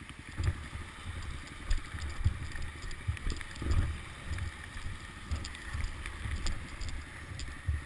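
Wind buffeting and handling noise on a camera microphone: irregular low rumbling thumps over a faint hiss, with a few small clicks and no engine running.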